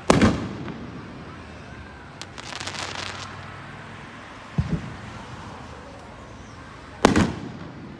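Fireworks aerial shells bursting: a loud bang right at the start and another about 7 s in, each followed by a short echoing tail. Between them comes a quick run of crackles from glittering stars about 2 to 3 s in, and a duller thump a little after 4 s.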